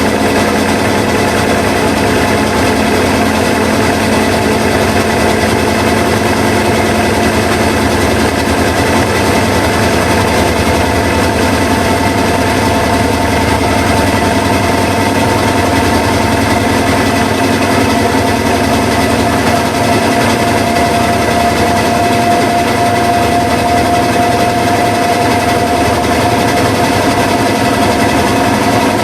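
Washing machine running, a loud, steady mechanical whirr with a fine fast rattle and a steady whine over it.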